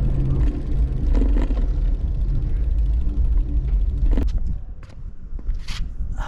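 A steady low vehicle rumble that dies away about four and a half seconds in, followed by a few faint clicks.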